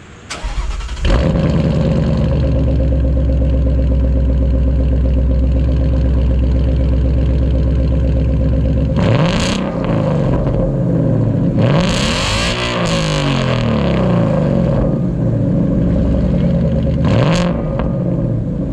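Ford Mustang GT's 5.0 Coyote V8 through an aftermarket cat-back exhaust starting about a second in and idling steadily. It is then revved three times, the middle rev climbing and falling back.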